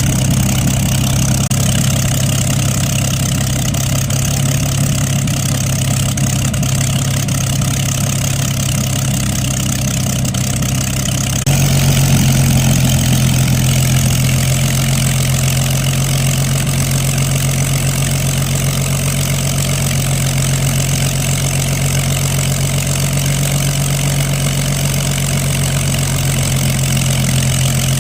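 Vintage light aircraft's piston engine running steadily with a low hum, a little louder from about eleven seconds in.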